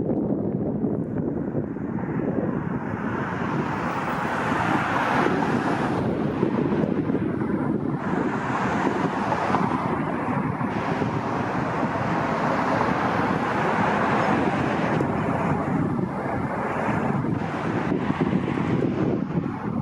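Steady vehicle noise, with wind buffeting the microphone; the sound brightens from about three seconds in and eases near the end.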